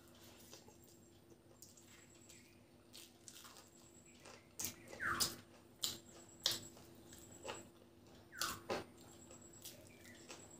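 Close-miked wet chewing and mouth smacks of a person eating rice and fried food by hand: scattered soft clicks, then a handful of louder smacks after about four and a half seconds.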